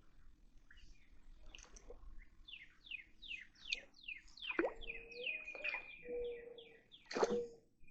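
Birds singing: a quick run of about eight falling whistled notes, with longer held whistles and two louder, sharp notes, the second one near the end.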